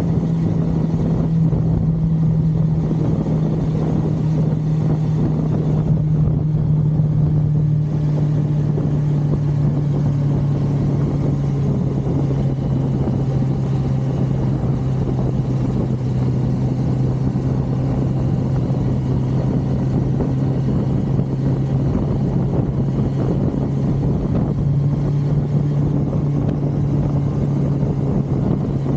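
1982 Suzuki GS550L's air-cooled inline-four engine running steadily while the motorcycle is ridden along the highway. The engine note drops a little about ten seconds in and rises again near the end.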